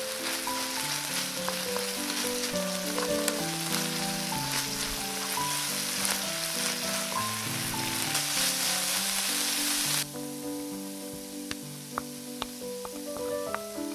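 Crumbled tofu and tuna sizzling in a hot frying pan while being stirred with a wooden spatula. The sizzle drops off sharply about ten seconds in, leaving a few light ticks and pops. A simple background music melody plays under it.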